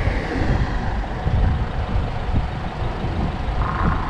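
Low, uneven rumble of road traffic passing along the coastal bridge road, with a short higher tone about three and a half seconds in.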